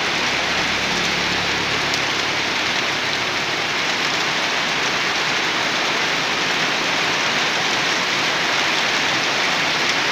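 Steady rain falling on puddled ground and garden foliage, an even hiss with no break. A faint low hum sits under it for the first three seconds or so.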